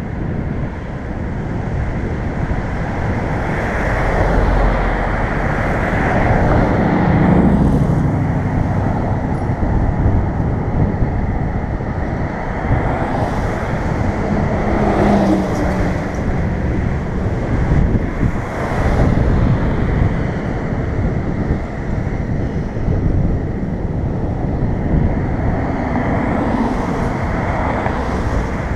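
Road traffic passing a moving bicycle: cars go by several times, each swelling and then fading, over a steady rumble of road noise.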